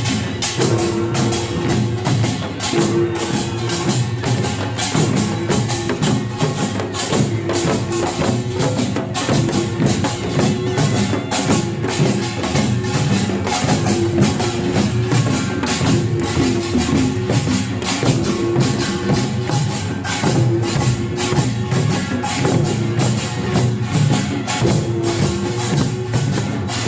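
Korean pungmul band playing without a break: dense, rapid clanging strokes of kkwaenggwari small gongs over janggu hourglass drums, buk barrel drums and jing gong.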